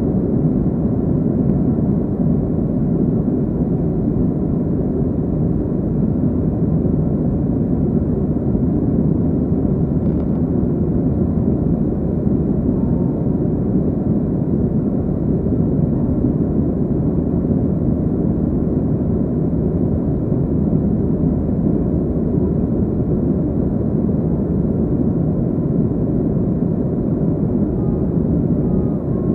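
Steady cabin noise inside a Boeing 737-300: a constant roar from its CFM56-3 jet engines and airflow, unchanging throughout.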